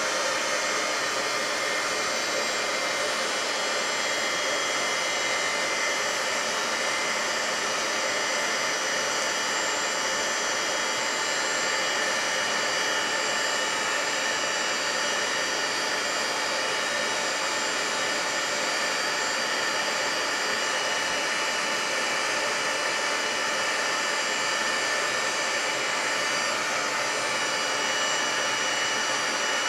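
Heat gun running steadily, blowing hot air to shrink a piece of shrink plastic, an even whoosh of air with a constant fan whine.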